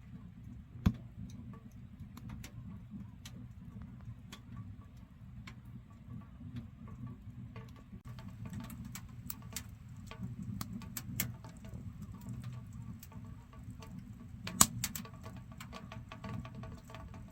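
Firewood burning in a wood stove: irregular crackles and pops over a low steady rumble, with two sharper, louder pops, one about a second in and one near the end.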